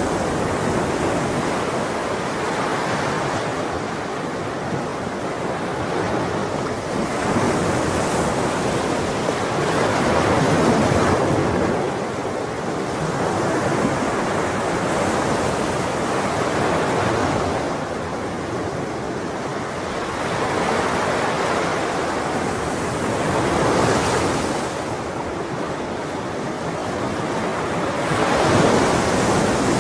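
Ocean waves washing onto a shore in a continuous rush, swelling and breaking every few seconds.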